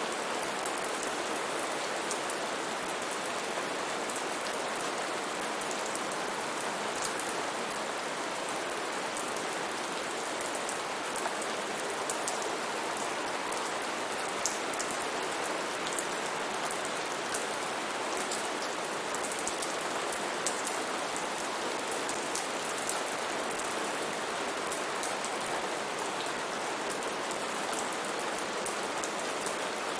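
Steady heavy rain falling on foliage, a constant hiss with many small, sharp drop impacts scattered through it.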